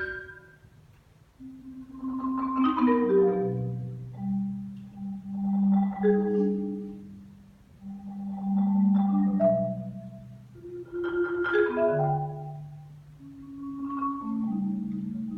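Solo marimba playing slow, wave-like phrases: each swells and fades, with falling runs of higher notes over held low tones, about five phrases in all after a brief hush at the start.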